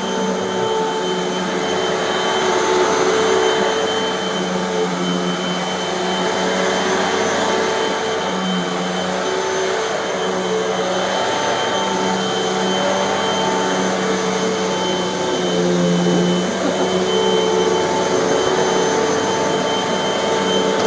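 Hoover bagless upright vacuum cleaner running steadily on carpet, its motor pitch shifting slightly now and then.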